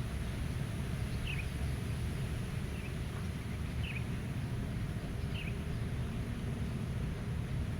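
Steady low rumble of wind, with a bird giving short falling chirps, four of them, about one every second and a half.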